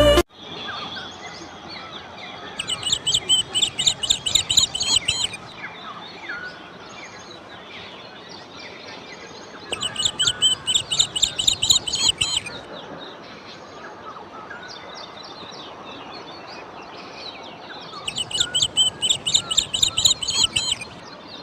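A songbird singing three bouts of rapid, repeated high chirps, each lasting about three seconds, with fainter calls from other birds and a steady background hiss between the bouts.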